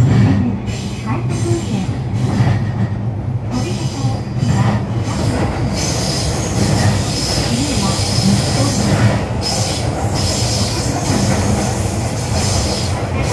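Running noise of an E531 series electric train heard from inside the passenger car: a steady, loud rumble of wheels on rail. About six seconds in, a thin high wheel squeal joins and carries on, dropping out briefly a few seconds later.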